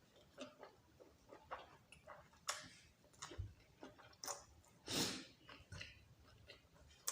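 Close-up eating sounds: scattered wet chewing and smacking clicks, with a short noisy breath about five seconds in.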